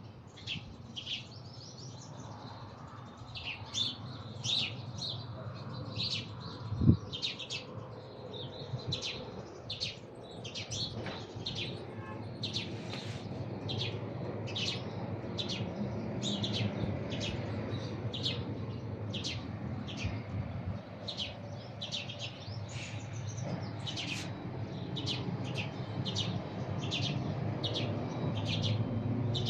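A small bird chirping over and over, short high chirps a little more than once a second, over a steady low rumble that grows louder toward the end. One sharp knock comes about seven seconds in.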